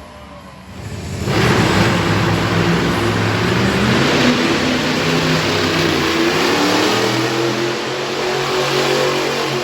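Monster truck engine revving hard, coming up loud about a second in and staying at high revs, as in a truck spinning donuts.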